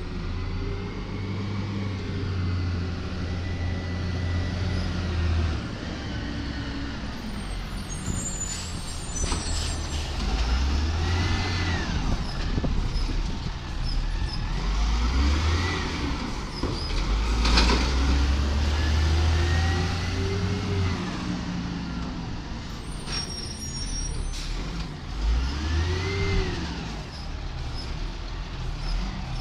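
Cat 3126 diesel of a Peterbilt 320 automated side-loader garbage truck running, its revs stepping up and down several times, with whines that rise and fall again and again and one sharp knock a little past halfway.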